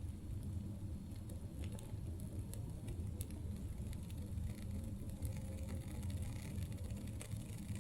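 Campfire crackling: scattered sharp pops and snaps of burning wood over a steady low rumble.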